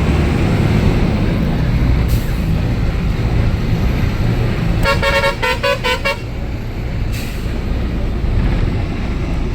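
Tipper truck's diesel engine running steadily, with a quick run of about six short horn toots lasting about a second and a half midway.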